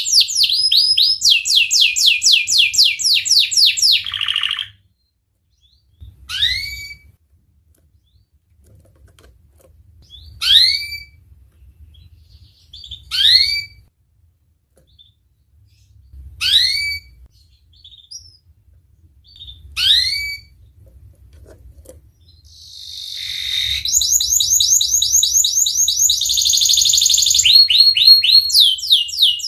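Domestic canary singing: fast rolling trills, then five single rising whistled chirps a few seconds apart, then a swelling trill that builds into fast rolls again near the end.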